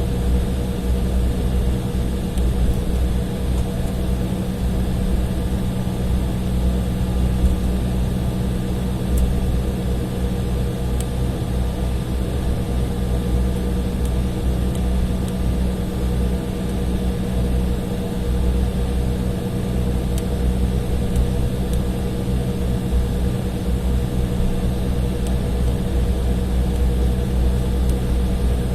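Inside the cabin of an Embraer E175 taxiing on the ground: the GE CF34 turbofans at idle give a steady low rumble with a constant mid-pitched hum.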